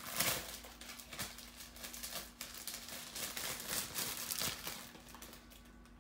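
Paper rustling and crinkling as a card and its paper packaging are handled, loudest just at the start and dying down near the end.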